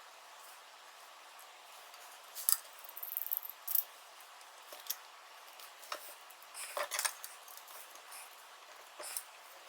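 Scattered light clicks and clinks of small motorcycle parts being handled, with a quick run of rattling ticks about three seconds in and a few sharper knocks around seven seconds.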